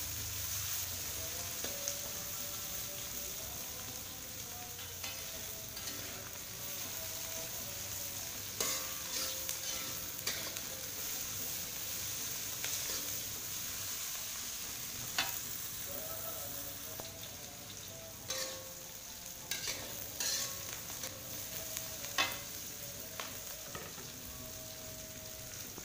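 Chopped chillies, onion and spices sizzling in hot oil in a steel wok, stirred with a metal spatula that scrapes and knocks against the pan now and then.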